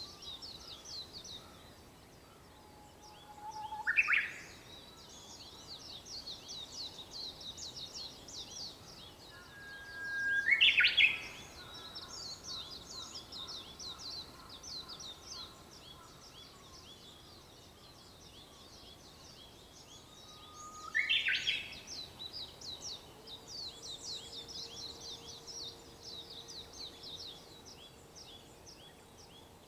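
Japanese bush warbler singing its "hoo-hokekyo" song three times, about every eight to ten seconds: each a long held whistle breaking into a quick, loud rising flourish. Behind it runs a steady high chirping chorus of other small birds.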